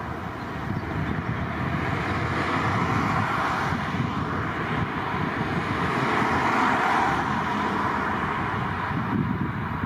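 Jet airliner's engines heard as a steady rushing roar, growing louder after about a second and staying strong through the middle.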